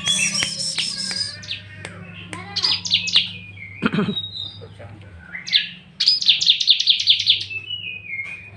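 Bar-winged prinia (ciblek) singing: short trills early on, then from about six seconds a long, even run of rapid high repeated notes, several per second. A brief lower sound comes about four seconds in, over a faint steady hum.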